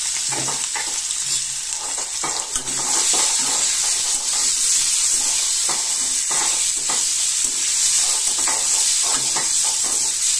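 Prawns coated in salt and turmeric sizzling in hot oil in a metal kadai, with a metal spatula scraping and turning them now and then. The sizzle gets louder about two and a half seconds in.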